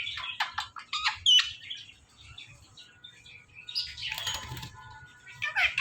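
Indian ringneck parrot calling: a quick run of short, high chirps and rising whistled notes, then quieter. About four seconds in there is a brief rustling burst, and near the end a falling squawk.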